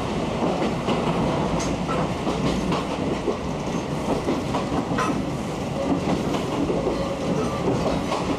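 Interior of a Hohafu 3002 passenger coach under way, with its windows open: a steady rumble of wheels and running gear, and the clickety-clack of the wheels over rail joints, with a sharper clack about five seconds in.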